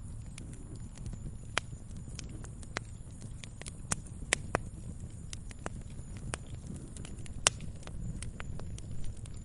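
Wood fire crackling: irregular sharp pops and snaps over a low steady rumble of the burning fire, the loudest pop about seven and a half seconds in.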